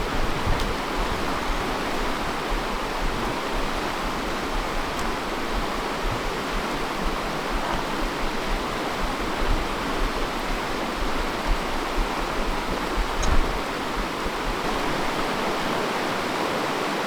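Fast river water rushing steadily over rocks, with a brief low thump about thirteen seconds in.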